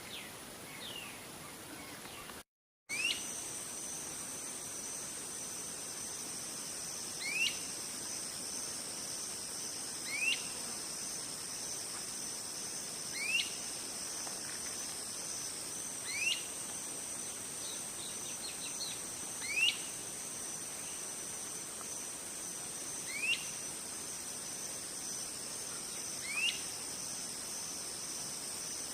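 A bird repeating a short, quick rising call about every three seconds, eight times in all, over a steady high-pitched drone of insects. The sound drops out briefly near the start.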